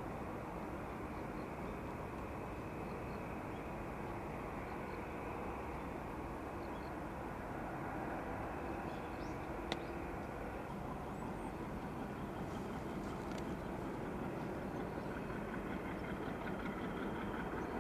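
Steady, distant jet aircraft engine rumble with a broad hiss, growing slightly louder near the end. A single sharp click about ten seconds in.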